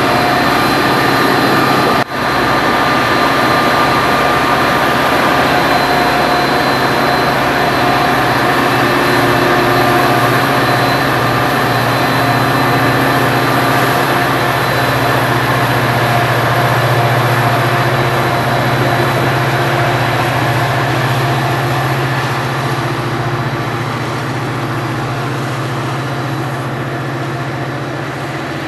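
A train passing close by on the mainline, its cars rolling steadily over the rails with a few steady ringing tones above the rumble; the noise eases off over the last several seconds.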